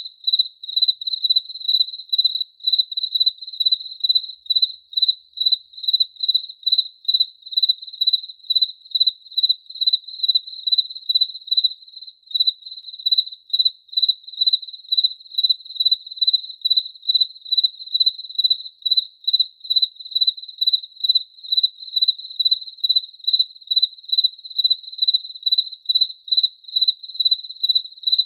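A cricket chirping in a steady, even rhythm, about two to three chirps a second, each chirp a single clear high note.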